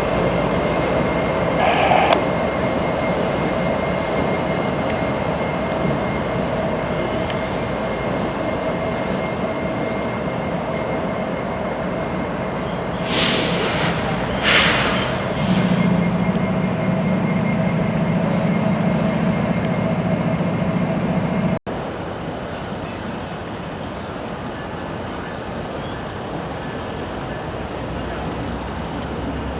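Freight train and locomotives moving through a rail yard: a steady rumble with faint steady whining tones. Two short bursts of hiss come about halfway through, then a low hum joins for several seconds before the sound breaks off abruptly and resumes a little quieter.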